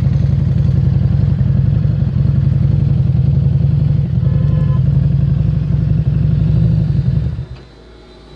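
Harley-Davidson Street 750's liquid-cooled V-twin running at a steady pitch through a Screamin' Eagle exhaust, then cutting away suddenly about seven seconds in.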